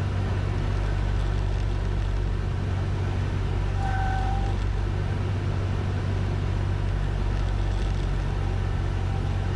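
Cessna 172N's four-cylinder Lycoming engine and propeller droning steadily as heard inside the cockpit, with a short high tone about four seconds in.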